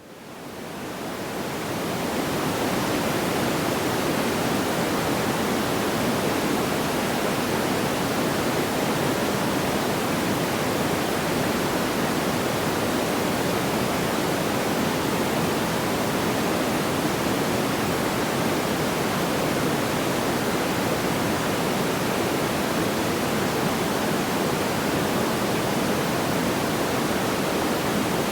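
Steady, even rushing noise like pink noise, with no distinct crackles or pops; it fades in over the first couple of seconds and then holds level.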